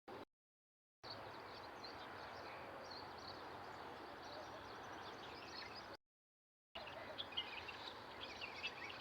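Small birds chirping over steady background hiss, the chirps thin at first and busier near the end. The sound cuts in and out abruptly with stretches of dead silence between the pieces.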